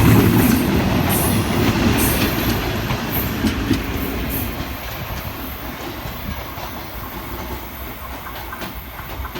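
Goods train wagons rolling past on the rails: wheels clacking over the rail joints with some thin wheel squeal in the first few seconds, then the rumble fading steadily as the train moves away.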